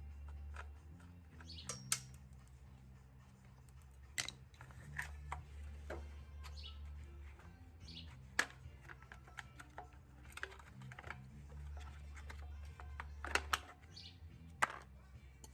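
Hand tools clicking and clinking against metal parts while a small engine's carburetor is taken apart, a dozen or so separate knocks, with birds chirping a few times and a low steady hum underneath.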